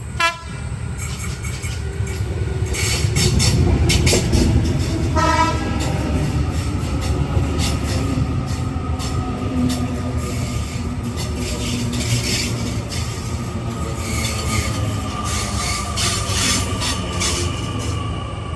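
Train sounding two short horn blasts, one right at the start and one about five seconds later, then running past with a steady rumble, wheels clicking over the rail joints and a thin whine.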